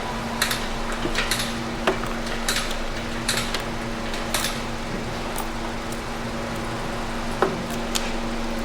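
Metal hand tools clinking and scraping in short bursts, with a couple of sharper knocks, over a steady low hum in a workshop.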